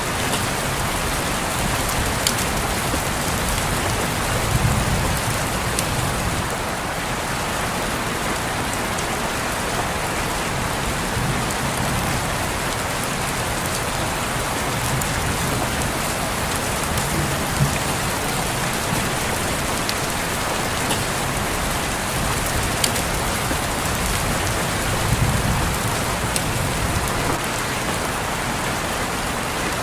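Steady rain falling on a window, a dense even patter with scattered sharper drop ticks.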